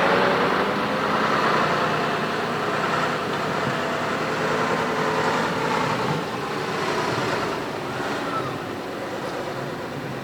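ZIL-137B 10x10 truck's V8 petrol engine running as the truck drives off, its sound fading steadily as it moves away.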